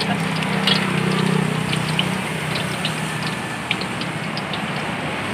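Steady sizzling of food frying in hot oil, with scattered small crackles, over a low hum that fades after the first couple of seconds.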